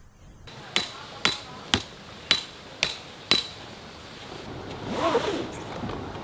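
Six sharp metallic strikes, about two a second, each with a brief ringing, like a hammer blow on metal. A softer scraping or rustling sound follows near the end.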